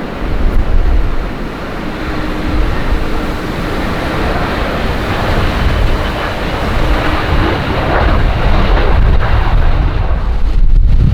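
Strong gusting wind buffeting the microphone with a deep, uneven rumble, over the steady noise of a jet aircraft's engines at the runway.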